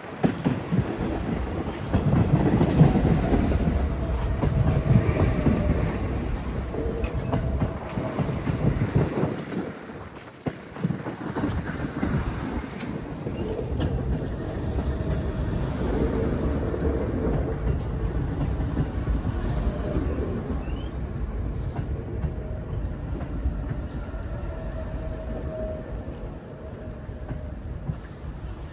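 A New York City Subway Q train running past, its wheels clattering over the rail joints, with a faint steady tone over the rumble. The sound dips briefly about ten seconds in, then carries on.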